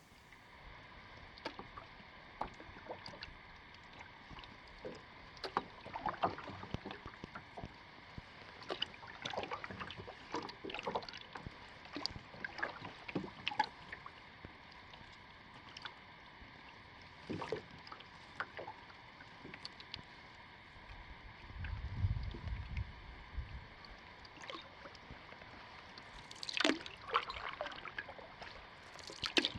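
Canoe paddling: the paddle dipping and water splashing and dripping in short, irregular strokes. A brief low rumble comes about two-thirds of the way through.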